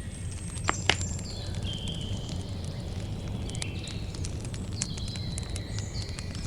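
Campfire burning with a steady low rumble and scattered crackles, with two sharper pops about a second in. Short, steady, high-pitched notes at several different pitches overlap above the fire throughout.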